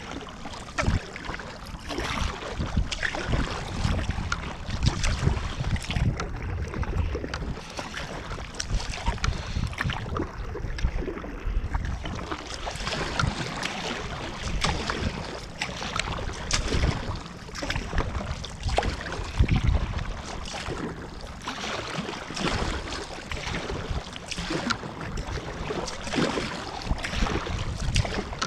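Water splashing and lapping around a kayak in uneven swells, with small knocks and wind buffeting the microphone.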